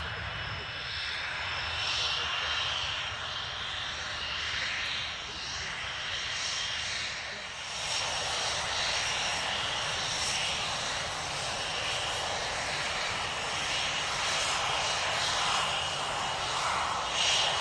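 Panavia Tornado jets' RB199 engines running at taxi power on the runway: a steady jet noise with a high whine, growing louder about eight seconds in as the aircraft come closer.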